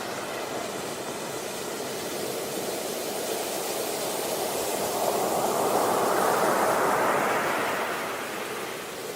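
Sea waves surging onto a beach: a steady rush of surf that swells to a peak in the middle and falls away near the end.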